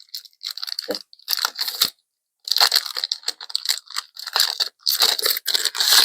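A trading card booster pack wrapper being torn open and crinkled by hand, in several bursts of tearing and rustling with short pauses between them.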